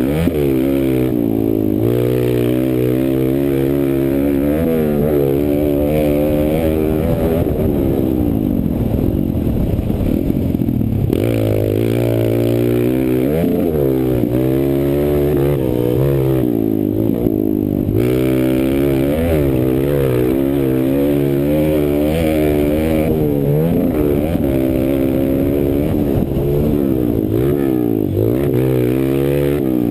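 Kawasaki KLX140 pit bike's single-cylinder four-stroke engine under race load, revving up and falling back again and again as it is worked through the gears and turns.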